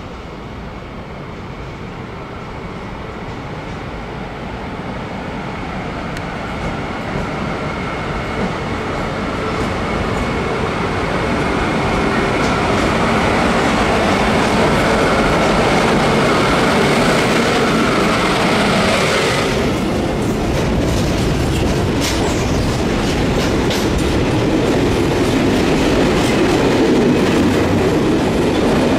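A freight train hauled by an ÖBB Taurus electric locomotive approaches and passes, growing steadily louder, with a thin steady high tone over its running noise. About two-thirds of the way through, the locomotive goes by. The heavier rumble and clickety-clack of freight wagons rolling past takes over, with quick clicks of wheels over rail joints.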